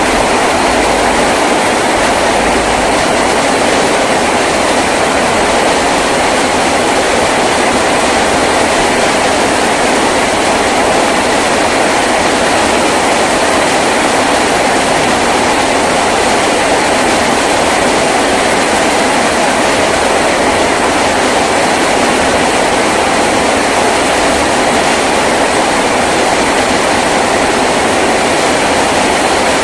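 Heavy rain falling steadily on a tin roof, a loud, even, unbroken rush.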